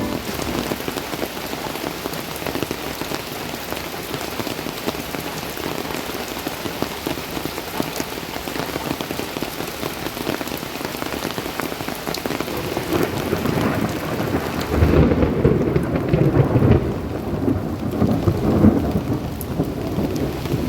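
Steady rain falling, with a long roll of thunder rumbling in about three-quarters of the way through and carrying on to the end.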